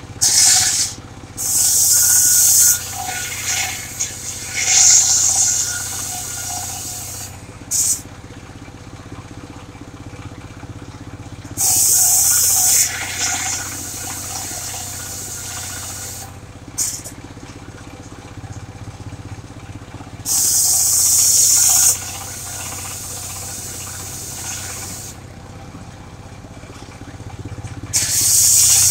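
Engine-driven circular sawmill ripping sengon wood. The engine runs steadily throughout, and the blade goes into the log in loud one-to-two-second cutting passes, about six of them, with the engine alone between.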